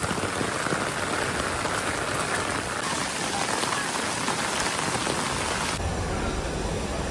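Heavy rain falling. The sound shifts abruptly twice, at about three and six seconds in, and the last stretch has more low rumble.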